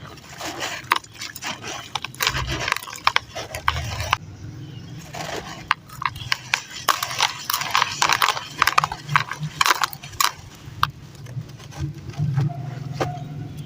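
Coloured sand-and-cement chunks crumbling in water: dense, irregular crackles and clicks.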